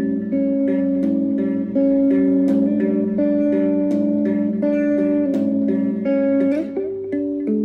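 Instrumental music led by a plucked guitar, with notes picked one after another at a moderate pace and a sliding note near the end.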